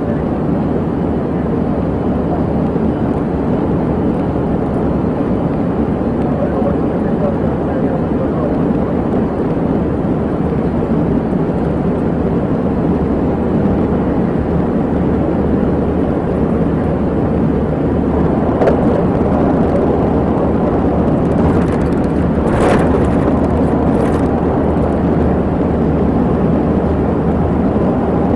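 Steady noise of a car on the move: engine and road rumble. A few brief clicks or knocks come about two-thirds of the way through.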